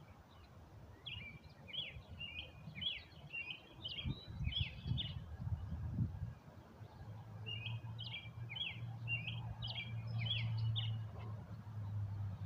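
A songbird singing in two bouts of quick, chirping notes, each bout lasting a few seconds. Beneath it there is low rumbling about four seconds in, then a steady low hum.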